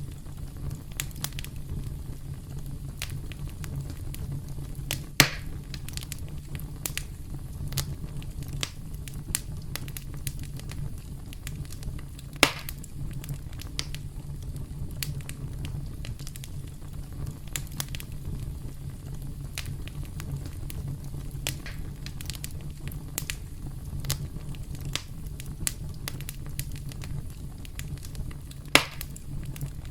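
Campfire crackling: a steady low rumble of burning wood under frequent small crackles, with three louder pops, about five seconds in, about twelve seconds in and near the end.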